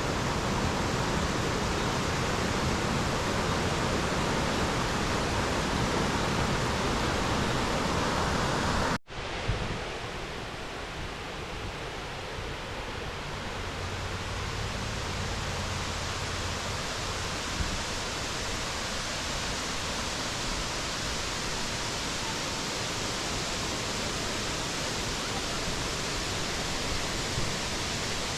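Steady rush of falling water from a waterfall, a continuous even hiss. About nine seconds in it cuts out for an instant, then carries on a little quieter.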